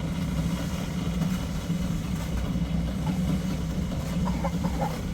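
A steady low engine hum, even throughout.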